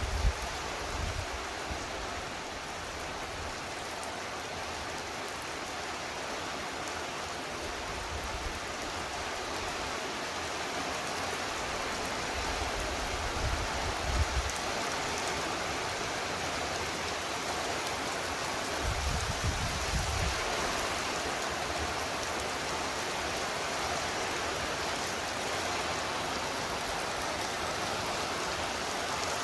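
Heavy, steady torrential rain pouring down during a thunderstorm, with a few brief low rumbles now and then.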